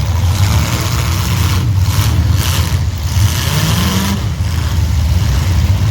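Several demolition derby cars' engines running loud and rough together, one revving up a little past the middle.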